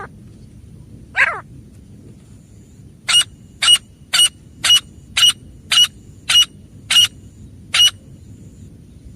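Female grey francolin calling: one downward-sliding call, then a run of about ten short, sharp notes at about two a second.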